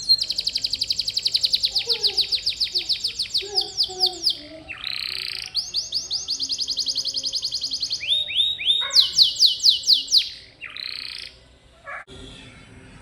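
Domestic canary singing: long, rapid trills (rolls) of high repeated notes at about ten a second, broken by short buzzy notes, with a louder, slower trill after the middle. The song stops shortly before the end.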